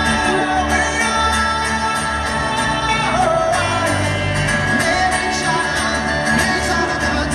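Live rock band playing with singing, heard through a phone's microphone from the crowd in a large open venue.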